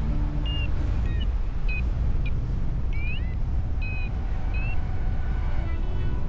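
Heavy wind rumble on the microphone during a paraglider flight, steady throughout, with short high melodic notes of background music over it.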